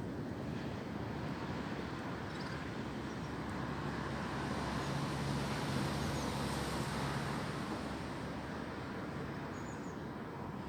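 Steady wind noise outdoors. A low engine hum from a passing vehicle swells and fades around the middle. A few faint bird chirps come through.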